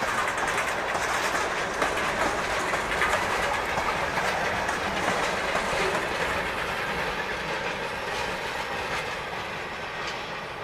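Freight train of tank cars rolling past, steel wheels rumbling and clicking over the rail joints. The noise eases off over the last few seconds.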